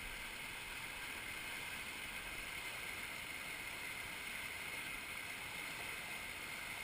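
Steady rush of moving river water at rapids: an even hiss with no separate splashes or strokes standing out.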